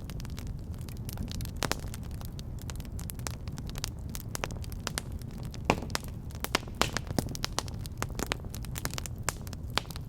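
Wood fire burning in a fireplace: a steady low rumble of flames with frequent irregular crackles and pops, the sharpest a little past halfway.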